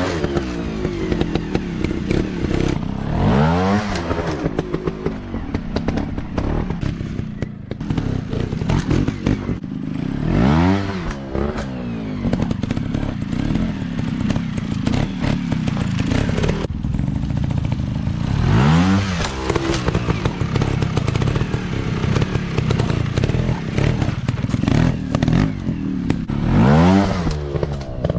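Dirt bike engines running and being revved, the pitch rising and falling in repeated surges, with clattering and knocking throughout.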